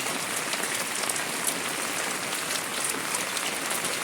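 Heavy rain falling steadily, a continuous even patter of many drops.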